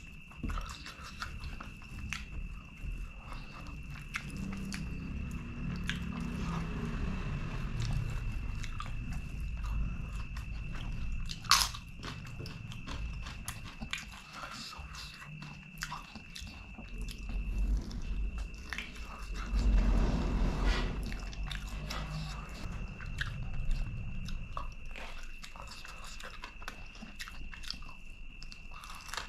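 Close-miked eating: a person biting and chewing chicken drumstick curry with rice, with many small wet clicks and smacks over the chewing and one sharp click near the middle.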